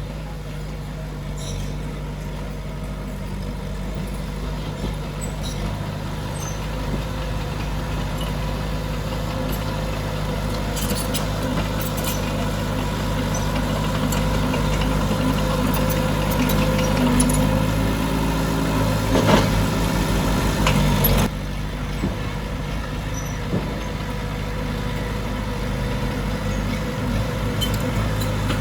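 Diesel engine of heavy earthmoving machinery running steadily and growing gradually louder, with a few metallic clanks. The sound drops suddenly about twenty seconds in.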